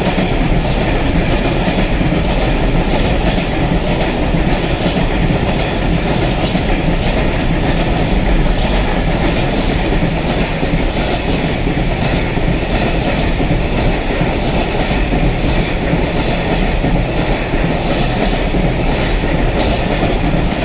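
Freight train passing close by, its wagons' wheels running steadily over the rails with a loud, continuous rumble and some clatter.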